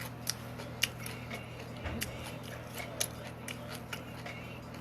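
A person chewing food with mouth smacks and a scattering of sharp clicks, over a steady low hum.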